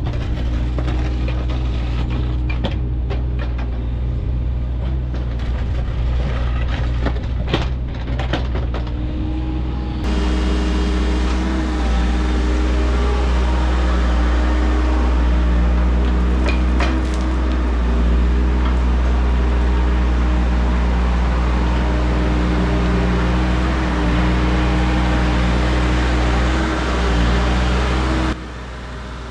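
Engine of a landscaping machine running steadily while stripping sod, with scattered knocks and clicks in the first several seconds. The sound changes abruptly about ten seconds in and drops in level near the end.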